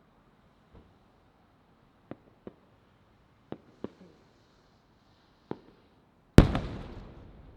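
Aerial firework shells bursting overhead: a handful of sharp, fainter reports, then a much louder boom about six seconds in that echoes away as it fades.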